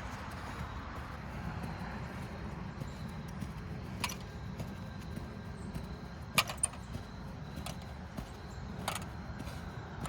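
Steady low rumble of background noise, with a few sharp clicks or taps: one about four seconds in, a louder close pair a little past the middle, and one more near the end.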